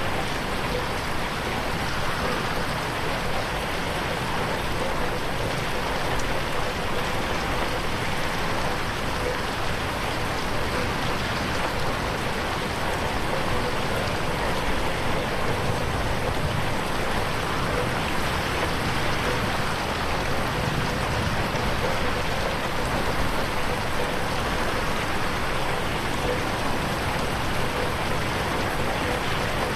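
Steady rain falling on a window pane, processed as 8D audio.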